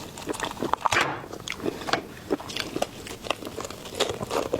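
Close-miked eating of seafood: wet chewing and biting, with irregular crackly clicks and smacks.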